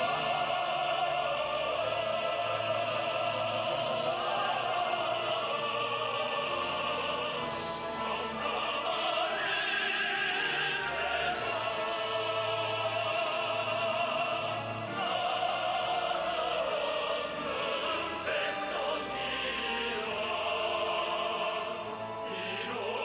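Operatic singing over an orchestra, the voice holding long notes of a few seconds each.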